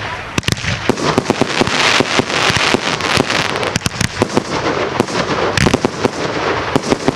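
Consumer firework cakes firing a rapid barrage: many irregular sharp bangs a second, mixed with crackling and hiss.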